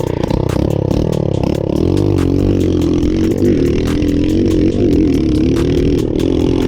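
Dirt bike engine running hard at high revs, its pitch wavering up and down as the throttle moves, with a steady rapid clatter over it. It cuts off suddenly near the end.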